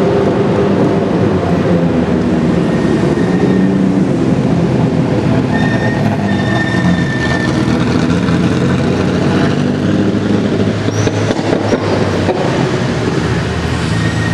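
Ferrari F40's twin-turbo V8 running steadily at low revs.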